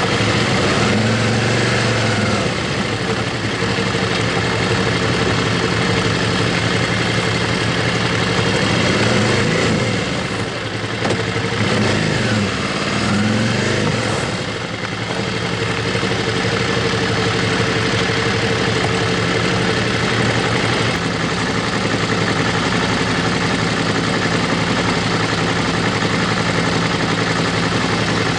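Motorcycle engine running under way, its pitch rising and falling as the throttle opens and closes, with bigger swings a couple of seconds in and again between about ten and fourteen seconds.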